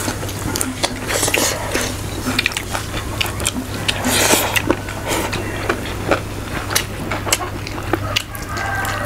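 Close-miked eating: people chewing and biting food, many short smacking clicks with a louder bite about four seconds in. A steady low hum runs underneath.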